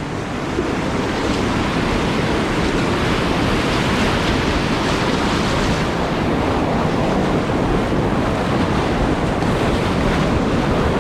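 River whitewater rushing steadily through a hole in a rapid.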